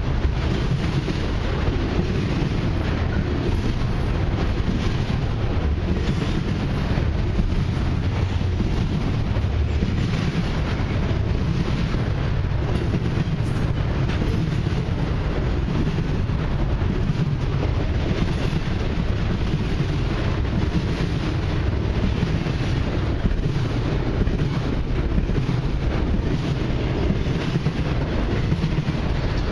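Double-stack intermodal container train's well cars rolling past at close range: a steady, loud rumble of steel wheels on the rails.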